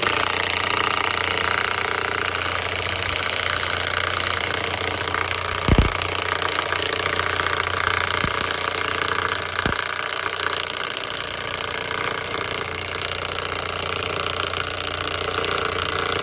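A motor running steadily with a low hum, starting and stopping abruptly, with a few short metal knocks about six, eight and ten seconds in.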